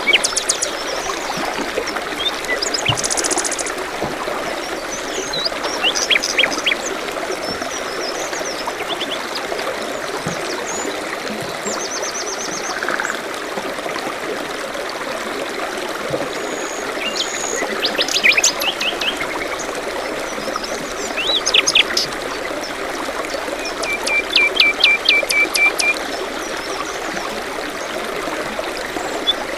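Stream water trickling steadily, with songbirds calling over it in short high chirps and quick trills. A run of rapid repeated notes comes near the end.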